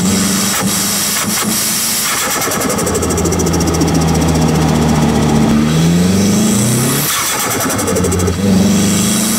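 Nissan Silvia S15's turbocharged SR20 engine with a T28 turbo, heard from a microphone at the turbo under driving. The engine note rises under acceleration, breaks off about seven seconds in as the throttle lifts with turbo flutter, then carries on.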